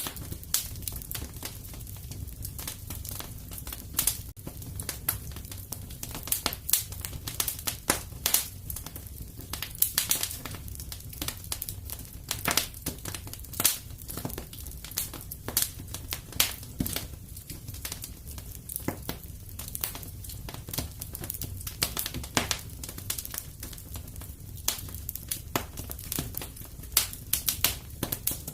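Wood fire crackling in a fireplace: a steady stream of sharp, irregular pops and snaps over a low, steady rumble of the flames.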